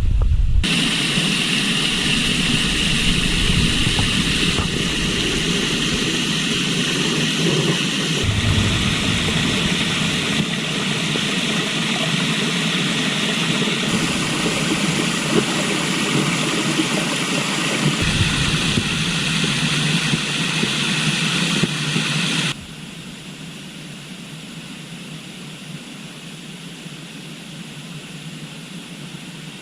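Steady rushing noise of a river flowing, changing abruptly in character several times and dropping much quieter about 22 seconds in.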